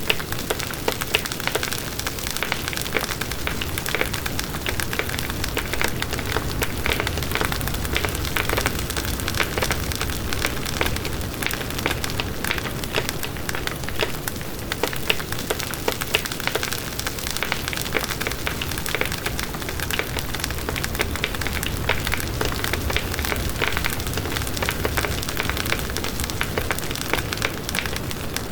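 Campfire burning steadily, wood crackling and popping with frequent small sharp pops over a constant low rush of flame.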